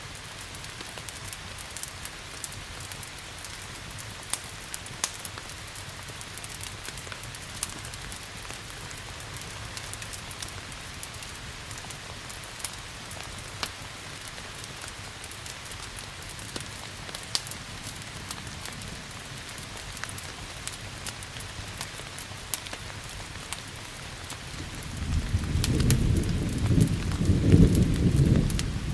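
Steady rain hiss with scattered sharp crackles from a wood fire. Near the end a loud, low rumble of thunder rolls in.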